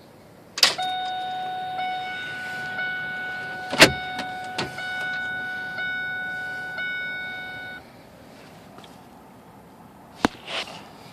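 A click, then a steady, high electronic warning tone from the truck's dashboard for about seven seconds, with sharp clicks in the middle and another near the end. This is the key-on warning while the 7.3L diesel's glow plugs are being cycled before another cold-start attempt.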